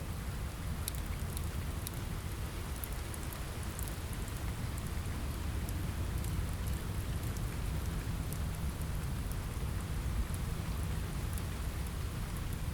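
Steady rain with a deep low rumble under it, and scattered sharp crackles of a wood fire, most of them in the first few seconds.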